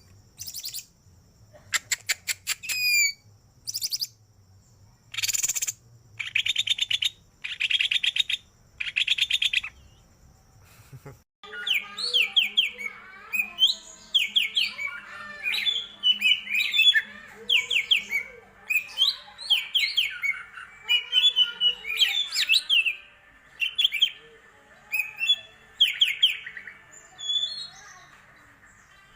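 Cucak ijo (yellow-headed green leafbird) singing a varied full song. It gives bursts of rapid harsh chattering notes, then, after an abrupt change about eleven seconds in, many quick rising whistled notes in short repeated phrases.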